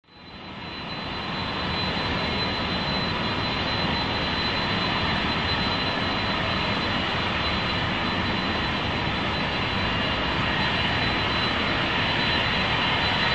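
Jet airliner's engines running, a loud steady rushing noise with a thin high whine over it. It comes in from silence over the first second or two and grows slightly louder near the end.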